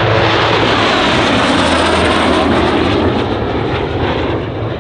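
Canadair CT-133 Silver Star's Rolls-Royce Nene turbojet, a loud jet rush of the aircraft passing close, strongest for the first three seconds and easing off after that.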